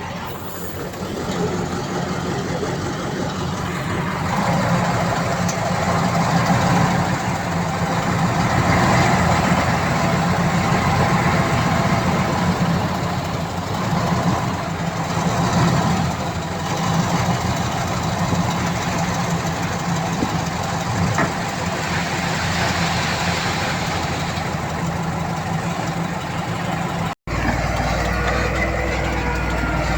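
Diesel engine of heavy earthmoving machinery running steadily. A little before the end the sound cuts out for an instant and resumes as a different, lower engine sound.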